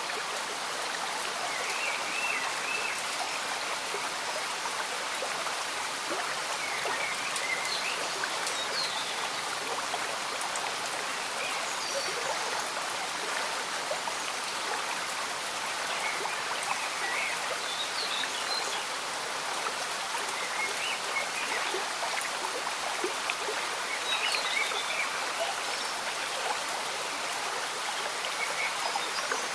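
Slow-moving stream bubbling under a steady fall of gentle rain, with small high gurgles or chirps scattered every few seconds.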